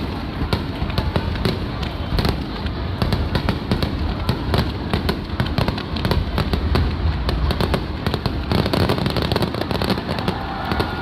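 Aerial fireworks bursting in rapid succession: a dense run of sharp bangs and crackles, many each second, over a continuous low rumble.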